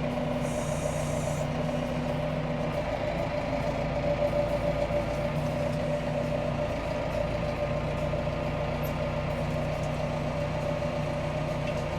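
Farm tractor engine running steadily at an even, unchanging pace.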